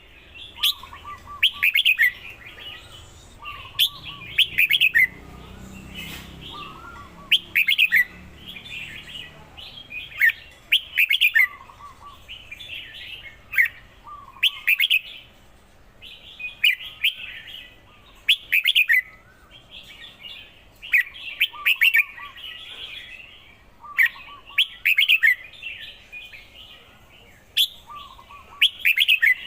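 Red-whiskered bulbul singing: short, loud, clear phrases repeated every second or two, with softer chatter between them.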